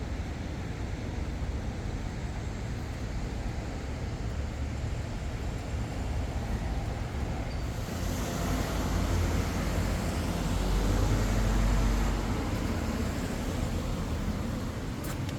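Road traffic: a steady low rumble, with a vehicle passing that swells from about eight seconds in and is loudest around eleven to twelve seconds before fading.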